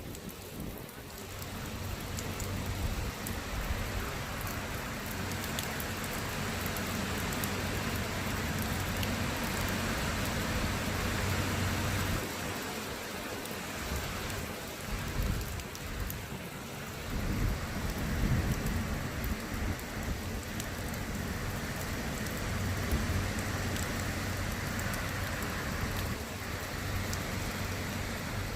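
Heavy rain falling steadily in a thunderstorm, with low rolling rumbles of thunder swelling in and out.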